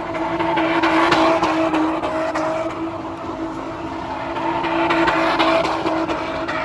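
Car engine held at high revs with tires squealing and sliding, swelling louder twice, about a second in and again about five seconds in.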